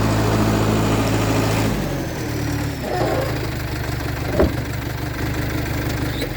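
International Harvester TD8E bulldozer's DT239 diesel engine running steadily, dropping to a lower pitch about two seconds in, with a single sharp knock a couple of seconds later.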